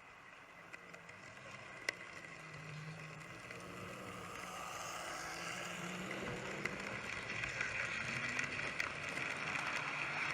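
Hattons 00 gauge P class 0-6-0 model locomotive running on the layout track: the rolling and motor noise grows steadily louder as it approaches, with a few sharp clicks from the wheels over rail joints.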